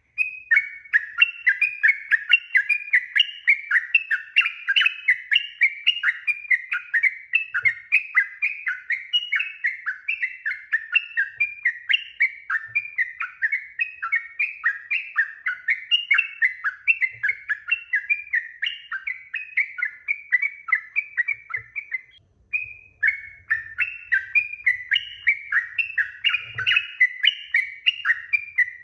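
Sooty-headed bulbul singing a long, unbroken run of rapid chattering notes, about three or four a second, with a brief pause about 22 seconds in before it carries on.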